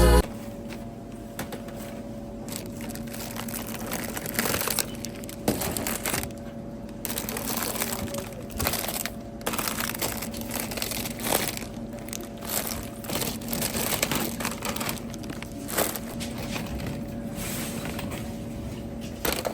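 Irregular crinkling and rustling with small clicks, like something being handled, over a faint steady hum.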